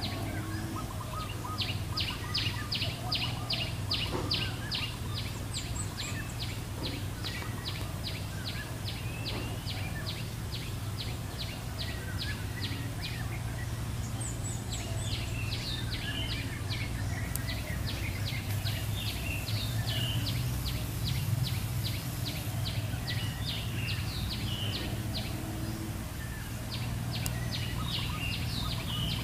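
A bird calling a long, fast run of sharp, evenly repeated notes, about three to four a second. The run breaks off about halfway into scattered irregular chirps and starts again near the end, over a steady low hum.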